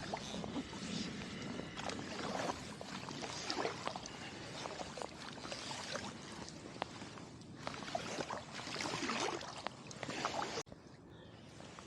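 Kayak paddle strokes in the water: repeated dips and splashes with water running off the blades, every second or two. Near the end the sound drops abruptly to a quieter trickle of water.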